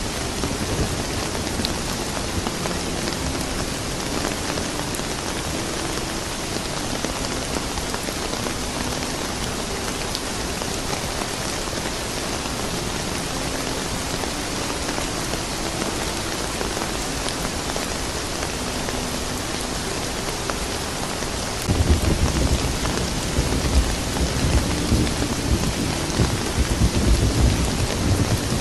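Steady rain hissing down. About twenty-two seconds in, a low rumble of thunder starts and rolls on to the end.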